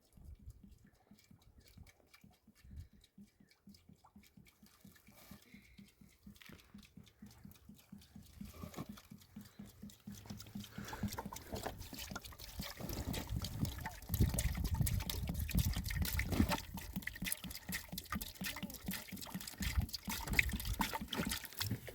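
Liquid splashing in quick, even strokes, faint at first and growing louder about halfway through.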